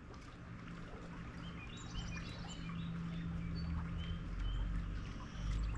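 Small wild birds chirping outdoors: scattered short, high notes at varying pitches, starting about a second and a half in. Underneath is a steady low hum and rumble that grows louder toward the end.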